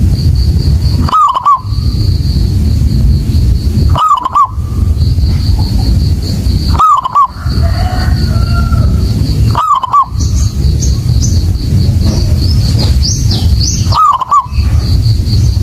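Zebra dove (perkutut) cooing: a short rolling phrase, repeated five times about every three seconds, over a steady low rumble and a thin high whine. A few quick high chirps from another bird come in the second half.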